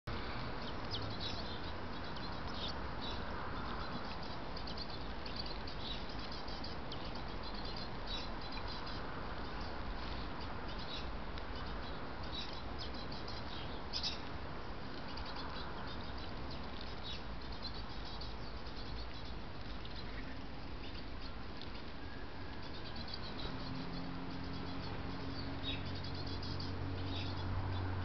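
Small garden birds chirping, many short high calls scattered throughout, over a steady hiss. A low hum comes in near the end.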